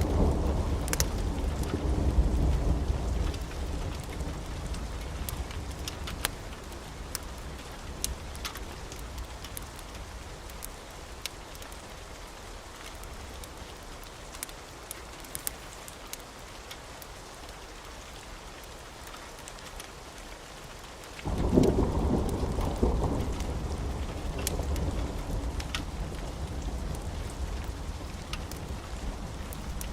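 Wood fire crackling in a fireplace with scattered sharp pops, over a deep rumble that fades away during the first third, then starts again suddenly about two-thirds of the way through and slowly dies down.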